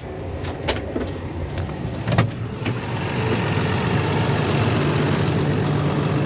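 John Deere 7830 tractor's six-cylinder diesel engine running steadily under load while pulling a grain drill, with a few sharp clicks in the first three seconds.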